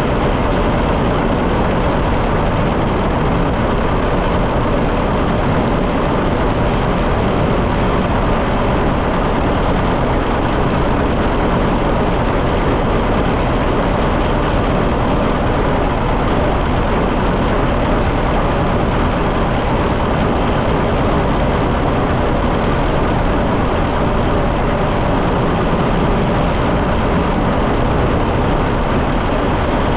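John Deere 730 tractor's two-cylinder engine running steadily while being driven along.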